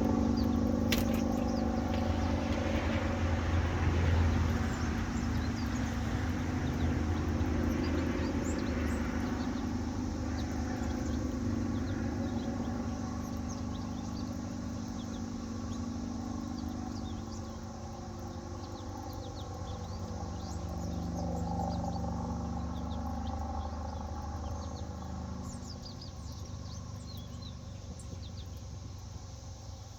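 Motorcycle engine running steadily and slowly fading away, its tone wavering a little. Small birds chirp now and then over it.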